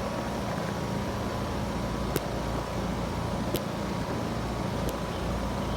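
Heat pump outdoor unit running in cooling mode: a steady fan and compressor hum. Three short, sharp clicks come over it about two, three and a half, and five seconds in.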